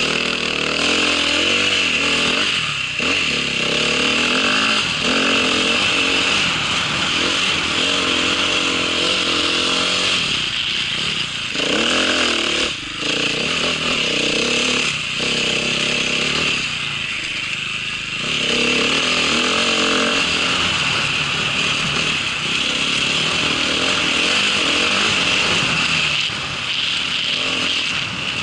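Small engine of a winter ride vehicle running under load, its pitch rising and falling as the throttle is worked, with a few brief drops in the engine note in the middle.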